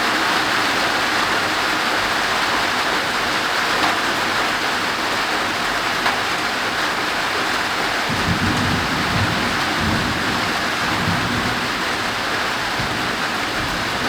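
Heavy rain pouring steadily on a roof overhead. About eight seconds in, a low thunder rumble starts and rolls on to the end.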